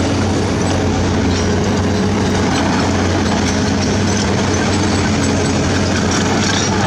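Heavy diesel construction machinery running steadily, a loud low engine hum with small clicks now and then.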